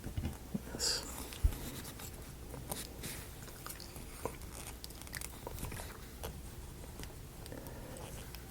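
Scattered small clicks and taps of thin wooden model-kit pieces being handled and fitted together, with one sharper knock about a second and a half in.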